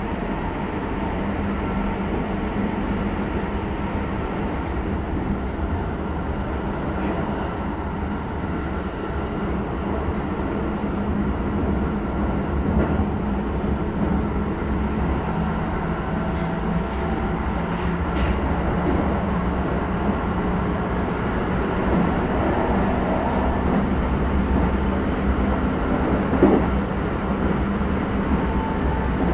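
Keisei 3100-series electric train running, heard inside the passenger car: a steady rumble of wheels on rail mixed with the tones of its Toyo hybrid SiC-VVVF traction system. There is one short knock near the end.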